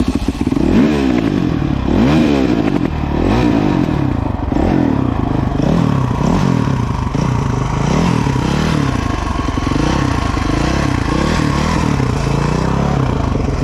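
Dirt bike engine catching on a kick start and then running, the throttle blipped so the revs rise and fall over and over, about once a second.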